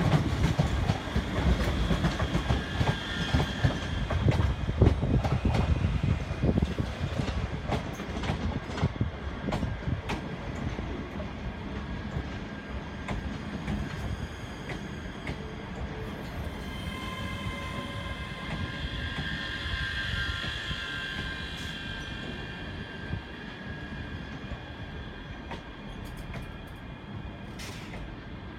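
ScotRail Class 385 Hitachi electric multiple unit arriving at the platform: a rumble with wheels clicking over rail joints, loudest over the first few seconds and fading as the train slows. From about sixteen seconds in, high squealing tones are heard as it brakes.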